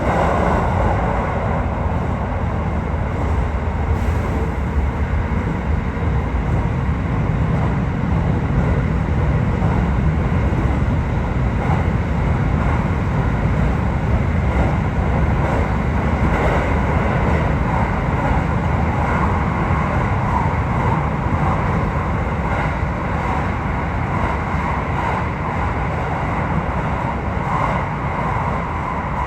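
Aichi Loop Railway 2000 series electric train running at speed, heard from inside the car: a steady rumble of wheels on rail with a faint, even hum above it.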